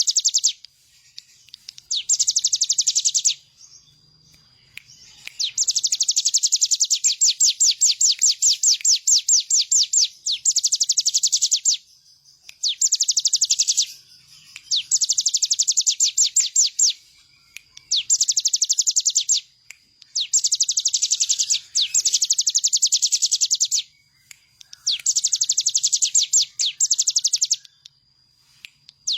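Ciblek gunung, a prinia, singing energetically: fast, high, rattling trills of rapidly repeated notes, in phrases of one to two seconds broken by short pauses, over and over.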